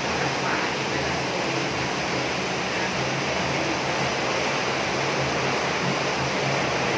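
Heavy rain falling steadily on a roof, an even, continuous rush.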